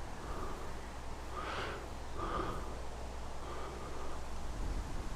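Faint breathing close to the microphone, with a light rustle and a steady low rumble underneath.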